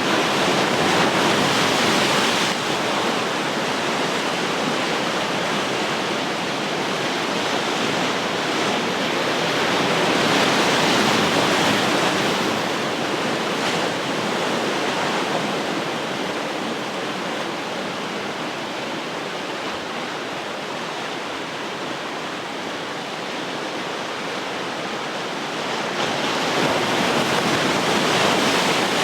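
Ocean surf washing onto the shore: a continuous rush of water noise that swells louder every ten to fifteen seconds as waves come in, loudest at the start, about a third of the way through and near the end.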